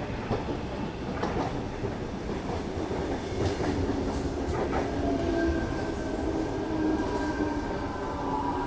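Sydney Trains Tangara double-deck electric train arriving and rolling slowly along the platform, its wheels clicking over rail joints in the first half. A steady whine sets in about halfway through as it slows to stop.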